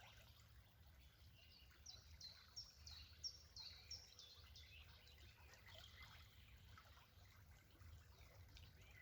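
Faint birdsong: a songbird sings a quick run of about seven short, high notes about two seconds in, with softer scattered chirps after it, over a low steady background rumble.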